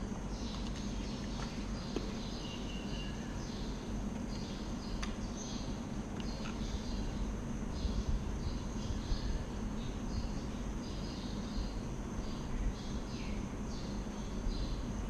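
Outdoor ambience: birds and insects chirping over and over, high-pitched, over a steady low hum.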